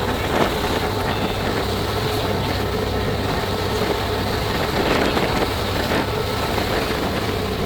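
Passenger ferry under way: a steady low engine drone under an even rush of wind and water, with wind buffeting the microphone.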